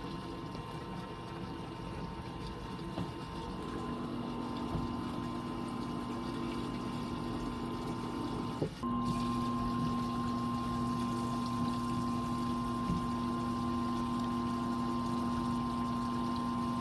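Fisher & Paykel Phase 5 top-loading washing machine starting its final spin: a steady motor hum and whine while water is pumped out. The hum cuts out briefly about nine seconds in and comes back stronger.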